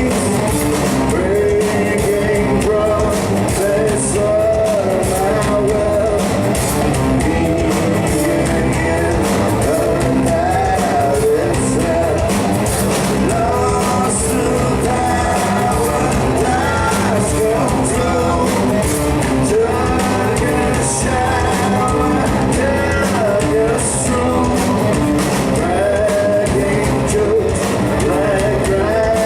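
Live rock trio playing, with a man's lead vocal sung over electric guitar and drums.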